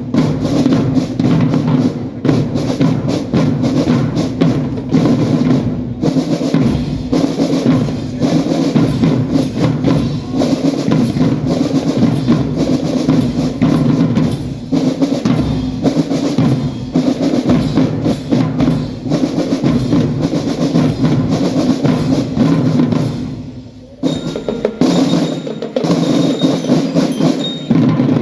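A marching drum band playing: snare and bass drums with drum rolls under sustained melodic parts, with a brief break in the playing near the end.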